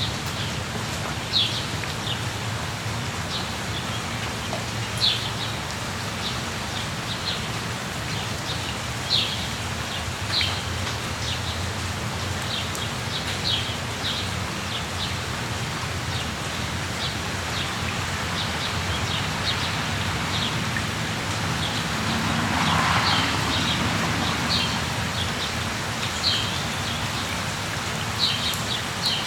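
Steady rain with short, high bird chirps scattered through it every few seconds; the rain swells louder for a couple of seconds about two-thirds of the way through.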